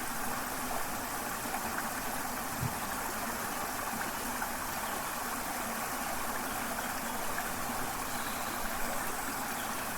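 Waterfall and river water rushing in a steady, even hiss.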